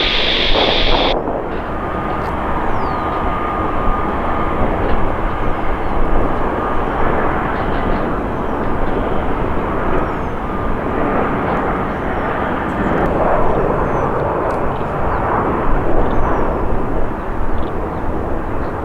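Jet airliner engines, a loud steady rushing roar, with a faint high whine for a few seconds about two seconds in.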